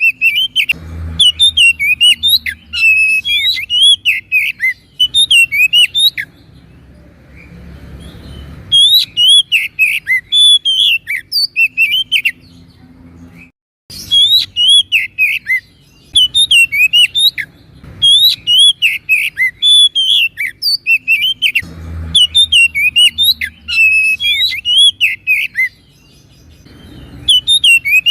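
Oriental magpie-robin (kacer) singing vigorously: runs of rapid, sweeping high chirps and whistled notes lasting a few seconds each, with short pauses between them. The sound drops out briefly about halfway through.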